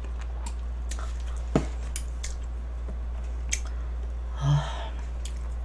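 Close-miked chewing and scattered small clicks of mouth and chopsticks as a person eats, over a steady low electrical hum. A short hummed sound comes about four and a half seconds in.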